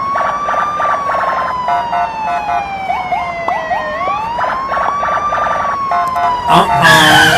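Police car siren sound effect: a wailing tone that rises quickly and then falls slowly, starting over about every four seconds, with rapid beeping pulses layered over it. A louder burst of other tones comes in near the end.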